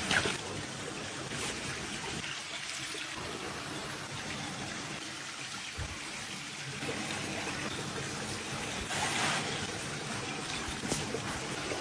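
Water trickling steadily, swelling briefly about nine seconds in.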